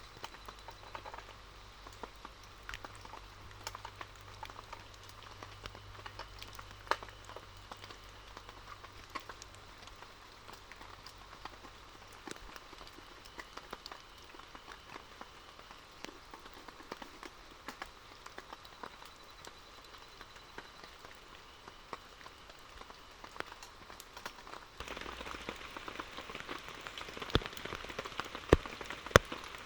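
Rain falling, with many scattered drops ticking sharply on a surface; the rain grows louder about 25 seconds in.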